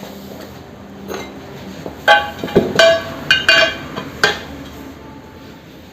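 Metal tools clinking and knocking against a motorcycle wheel rim during tubeless tyre removal. There are five or six sharp metallic strikes, each with a short ringing tone, in quick succession starting about two seconds in.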